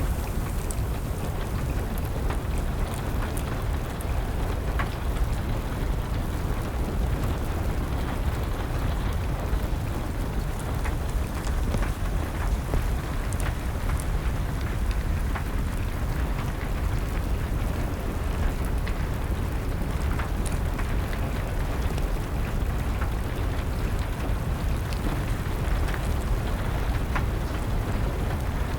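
Wood fire crackling, with scattered sharp pops, over a steady rain and a low, even rumble.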